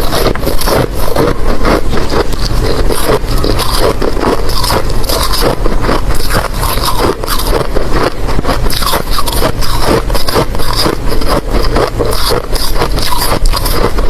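Ice being bitten and chewed right at the microphone: loud, rapid, continuous crunching and cracking of hard ice between the teeth.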